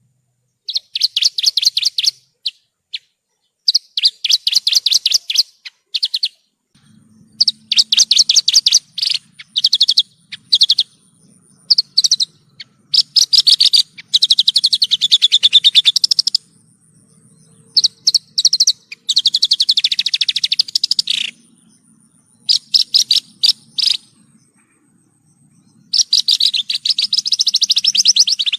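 Javan bush lark (branjangan) singing: bursts of very fast, high trills and rattling phrases, each a second or two long, separated by short pauses.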